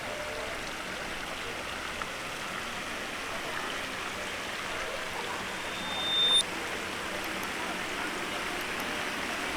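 Steady rushing noise like running water. About six seconds in, a short, high, steady tone swells and then cuts off abruptly.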